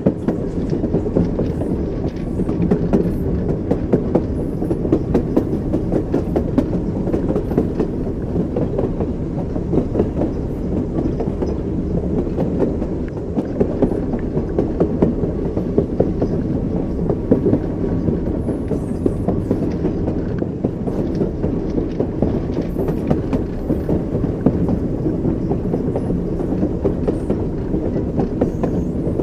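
Train wheels clattering over the rails: a continuous rolling rumble with repeated sharp knocks from the wheels.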